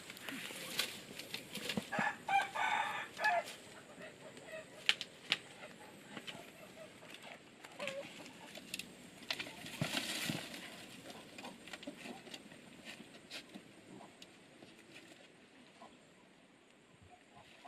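Chickens on a farm, with one drawn-out call about two seconds in, among scattered sharp clicks and rustles.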